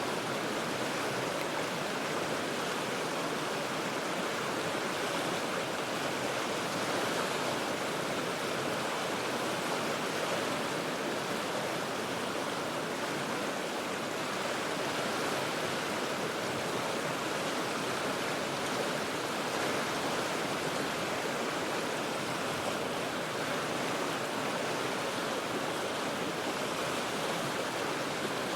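The Cheat River's rapids rushing steadily over rocks, an even, unbroken wash of moving water heard from high above the river.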